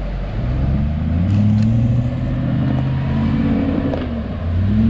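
UAZ off-roader's engine revving hard under load while trying to drive out of a stuck spot. The revs climb, hold, drop about four seconds in, then climb again near the end.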